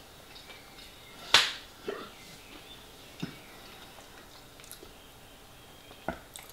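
Eating sounds close to the microphone: a handful of sharp mouth smacks and clicks while chewing pie, the loudest about a second and a half in.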